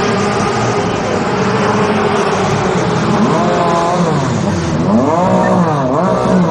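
Sports race car engines running at speed over a dense din of engine noise; from about three seconds in, engine pitch repeatedly rises and falls as cars rev up and down through their gears.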